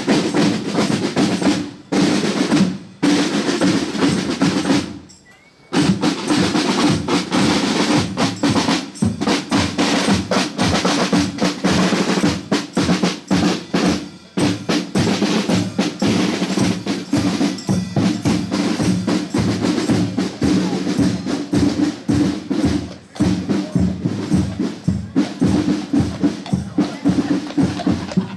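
Marching drums playing a rapid cadence of snare rolls over bass drum beats, with a brief break about five seconds in.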